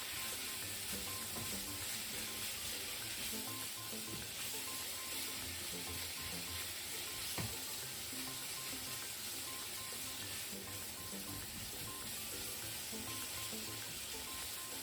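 Sausages and onion sizzling steadily as they sauté in hot vegetable oil in a pan, with one sharp tap about halfway through.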